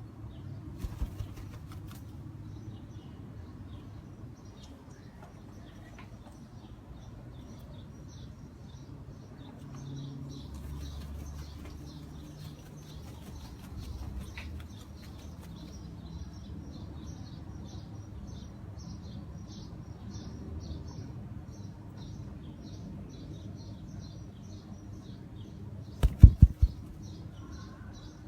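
Umbrella cockatoo flapping its wings, a low uneven fluttering, with a few loud sharp knocks about a second in and a quick cluster of them near the end.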